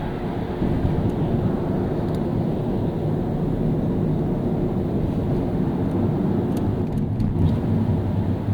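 Car driving on a city street, a steady low engine and road rumble with a few faint clicks near the end.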